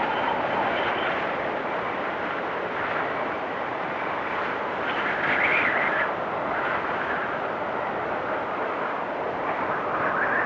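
Blizzard wind blowing steadily, swelling into a stronger gust around the middle and again near the end.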